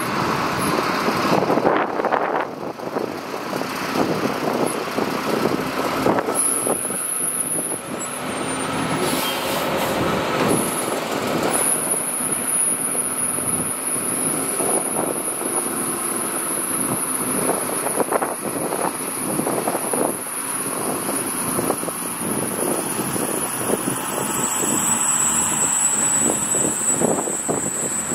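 Heavy diesel earthmoving machinery (dump trucks and a bulldozer) running and working soil, with a steady clatter and a thin high whine through most of it that drops a little in pitch near the end.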